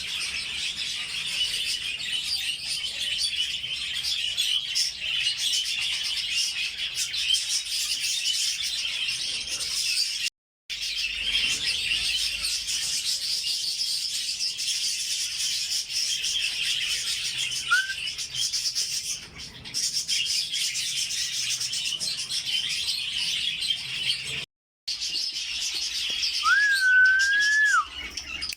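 A flock of budgerigars chattering and warbling continuously, with dense high twittering. The chatter breaks off briefly twice, and a single clear whistled note is held near the end.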